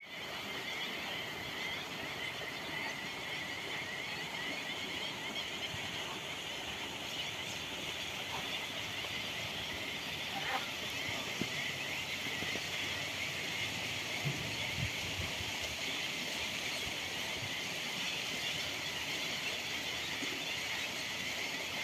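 Many birds chirping at once in a dense, continuous chorus of short high calls.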